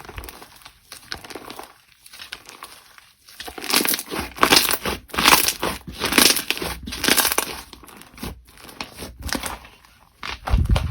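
Slime being squeezed and worked by hand, giving crinkling, crackling squishes. A run of louder squeezes, about two a second, comes in the middle, and another comes near the end.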